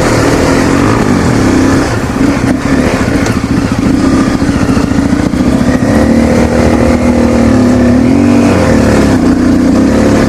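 Honda CRF250L's single-cylinder four-stroke engine pulling under load up a dirt hill climb, the revs rising and falling with the throttle. The engine note dips and climbs again about eight seconds in.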